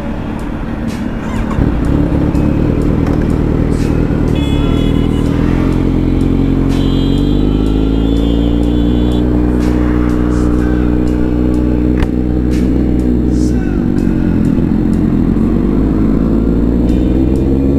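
Kawasaki Z900's inline-four engine through an aftermarket titanium exhaust. The note is rough and uneven at first, then climbs in pitch over a couple of seconds and holds high. It drops about two-thirds of the way in and climbs again near the end.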